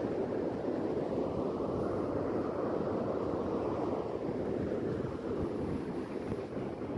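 Sea surf washing in: a steady rush of waves, with one wave swelling about two seconds in and subsiding again.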